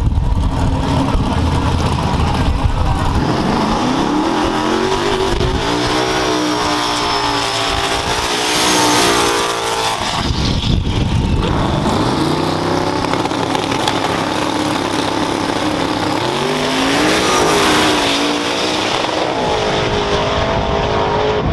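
Drag-racing truck engines revving up twice, each time rising in pitch and then holding, about three seconds and about twelve seconds in. A thin high whine rides over the first run-up.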